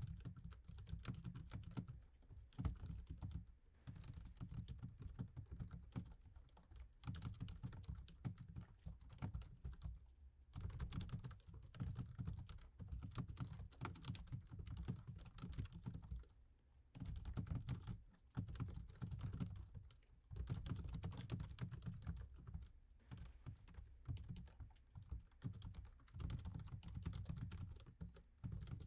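Continuous typing on keyboards, dense keystroke clicks in runs with short pauses. The iMac's standard keyboard is heard first, then a laptop keyboard from about four seconds in.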